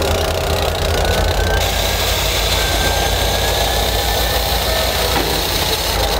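Freight train's covered hopper cars rolling slowly through a grade crossing: a steady low rumble with faint, thin wheel squeals drifting in pitch.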